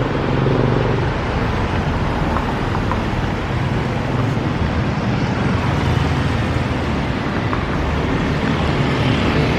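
Steady road traffic noise on a busy street: a continuous rumble of passing cars and motorbikes.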